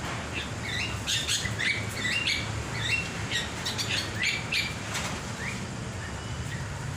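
A caged bird chirping in many short, quick notes, some rising or stepping up in pitch, mixed with several brief bursts of rustling noise.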